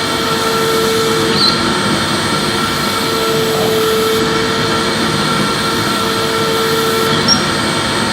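Electric vacuum cleaner running steadily: an even motor hum with a rushing air hiss, used as soothing noise for colic.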